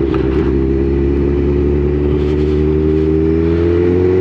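Motorcycle engine running under the rider, its note steady at first and then rising gradually as the bike accelerates.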